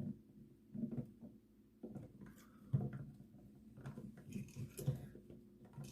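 Scattered small clicks, taps and rustles of hands handling a wall toggle switch and its wiring while trying to free a cable from the switch's terminal. The sharpest clicks come a little before the halfway point and near the end, over a faint steady low hum.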